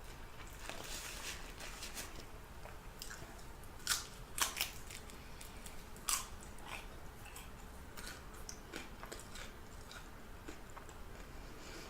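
A person chewing food with wet mouth noises, with a few sharp crunches about four and six seconds in.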